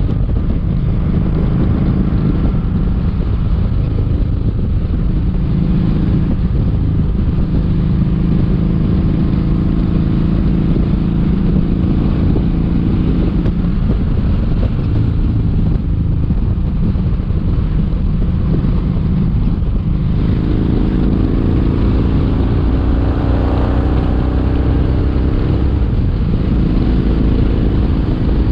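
Kawasaki Vulcan 1700 Vaquero's V-twin engine running steadily under way, with wind rush. About twenty seconds in, the engine note climbs as the bike speeds up.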